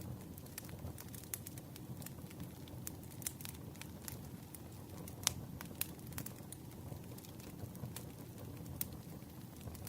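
Campfire crackling: irregular sharp pops and snaps over a steady low rumble of burning wood, with one louder pop about five seconds in.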